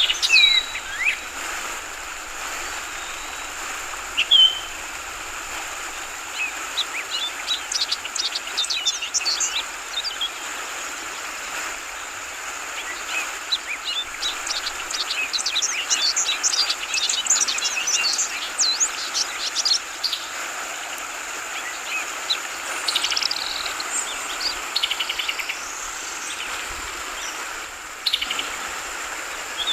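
Yellow-vented bulbuls (trucukan) calling in bursts of quick chirps, densest through the middle, over the steady rush of flowing water.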